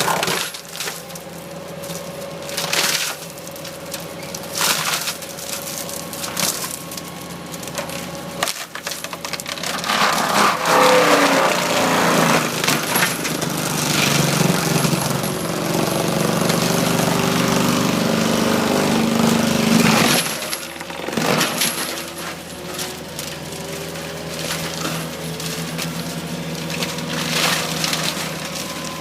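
Skid steer engine running with a forestry mulcher drum grinding brush and wood, with many sharp knocks from debris striking. The grinding is loudest in a long stretch from about nine to twenty seconds in.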